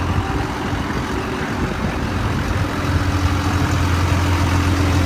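A truck engine idling steadily: a low, even hum that grows a little louder and fuller about halfway through.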